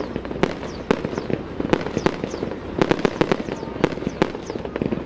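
Fireworks display: aerial shells bursting in a rapid, irregular run of sharp bangs, several a second.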